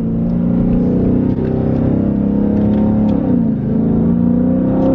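A Dodge 392 Hemi V8 accelerating, heard from inside the cabin. The engine note climbs steadily, drops back at a gear change a little past three seconds in, then climbs again.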